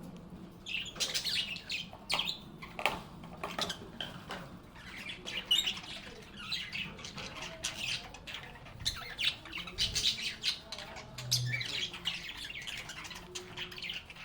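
Several pet lovebirds (Agapornis) chirping and calling in short, sharp, high notes, a busy irregular chatter.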